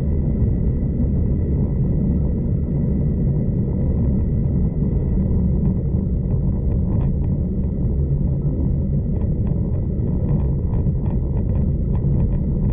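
Steady low rumble of a V/Line passenger train running along the line, heard from on board, with a run of quick clicks and rattles from about halfway through.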